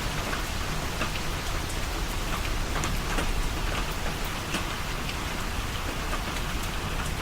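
Steady rain falling, with many small drop impacts ticking through it.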